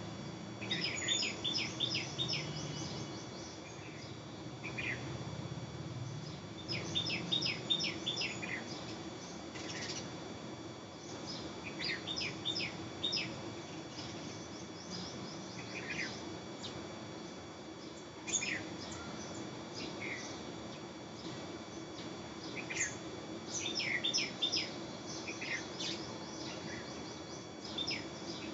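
Quick bursts of high, sharp chirps, half a dozen or so rapid notes at a time, returning every few seconds. A steady low hum and faint high steady tones sit underneath.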